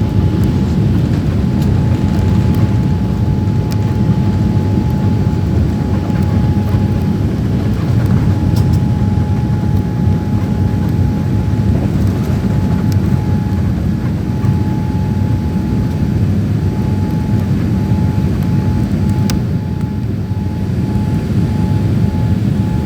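Jet airliner cabin noise: the engines and rushing air make a loud, steady low rumble, with a thin steady hum above it that begins to pulse on and off near the end.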